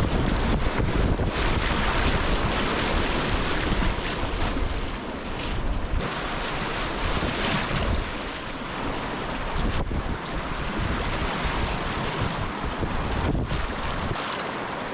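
Steady rush of river rapids around a kayak, with wind buffeting the microphone.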